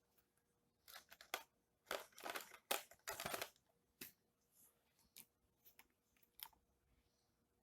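Faint scratching of a pen drawing lines, several quick strokes in the first half, followed by a few light taps.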